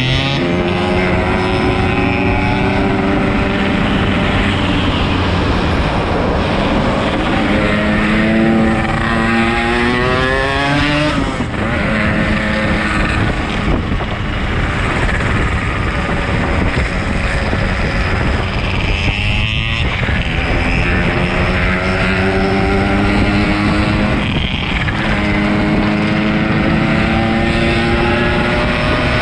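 Yamaha RX-King 135 single-cylinder two-stroke motorcycle engine under way, pulling up through the gears: its pitch climbs steadily, then drops at each gear change, about a third of the way in, around two-thirds and again near the end, over a steady low rush of riding noise.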